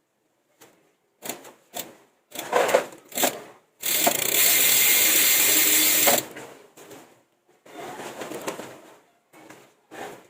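Mountain bike being washed: short scraping and clicking sounds, then a steady spray hiss for about two and a half seconds in the middle, then more short handling noises.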